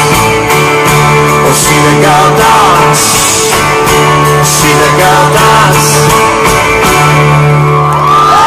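Live rock band playing the closing instrumental stretch of a song, guitar to the fore over steady sustained bass notes, very loud as heard from the audience.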